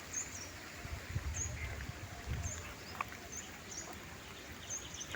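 A bird chirping, a short high note repeated about once a second, with a faint low rumble underneath.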